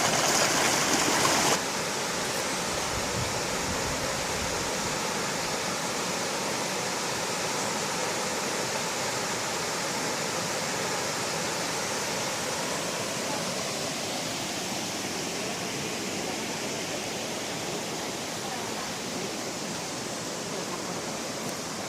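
Shallow mountain stream rushing and splashing over rocks, a steady even wash of water sound. It drops a step in loudness about a second and a half in and then holds steady.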